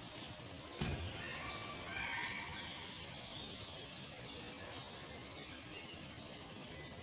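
Faint outdoor background with a few birds chirping in short, repeated falling notes, and a single knock about a second in.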